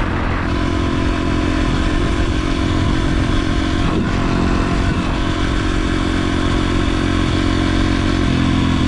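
Yamaha TT-R125 dirt bike's small single-cylinder four-stroke engine running at a steady road speed under way, its pitch shifting slightly near the end.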